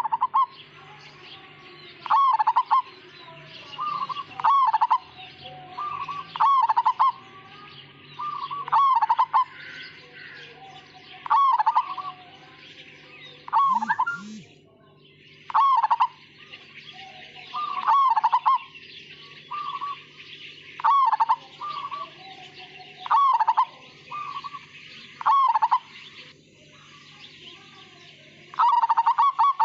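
Zebra dove (perkutut), a Majapahit-type bird, cooing its song phrase over and over, one phrase about every two seconds. Near the end it breaks into a fast run of short repeated notes. A steady low hum sounds underneath.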